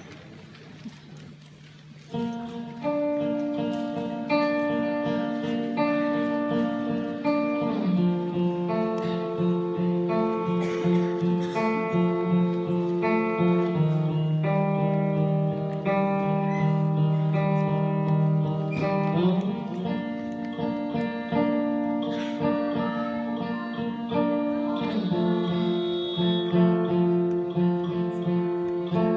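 Acoustic guitar playing slow, ringing chords that change every few seconds, starting about two seconds in.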